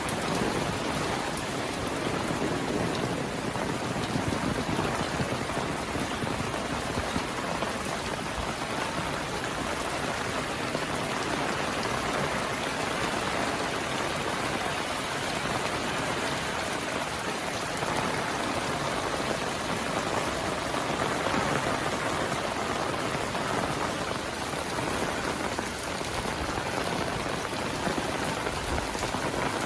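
Heavy rain falling steadily, an even hiss of rain on surfaces that holds level throughout.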